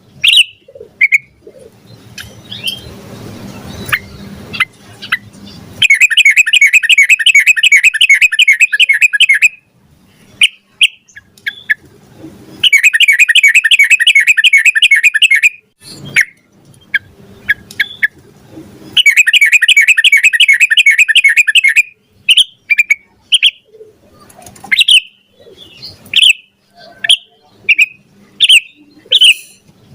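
Yellow-vented bulbul (trucukan) singing: short chirps and calls, broken by three long rapid trills of repeated notes, each about three seconds, the long 'ropel' runs.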